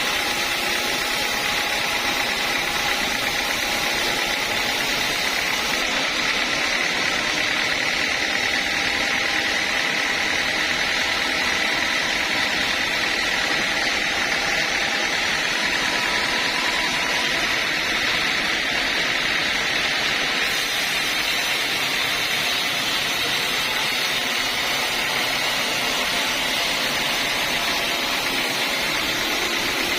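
Sawmill saw machinery running steadily with a constant whine, no breaks or changes in level.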